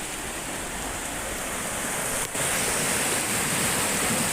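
Porter Brook in flood: fast, high floodwater rushing steadily. The sound dips for a moment just over halfway, then carries on a little louder.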